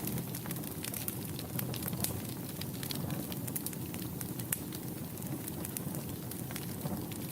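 Wood fire burning in a fireplace, with irregular sharp crackles and pops over a steady low rumble of flame.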